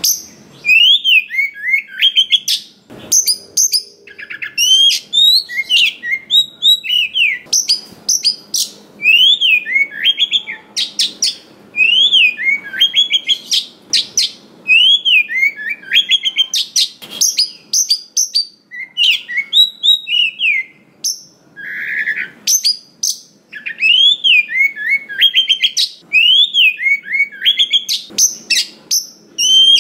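Oriental magpie-robin singing a loud, varied song of whistled and sharp high notes. A rising-then-falling whistled phrase comes round every few seconds.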